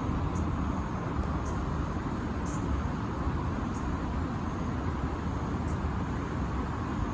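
Steady low rumble and hiss of city traffic, with faint short high-pitched chirps about every second; no cicada buzz stands out.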